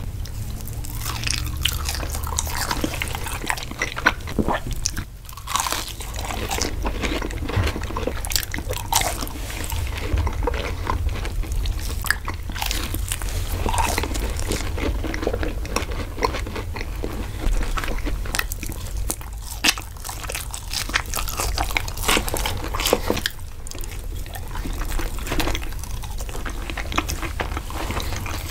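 Close-miked crunching and wet chewing of fried food, chicken nuggets and French fries, by two people eating, a dense run of irregular crackles and mouth sounds.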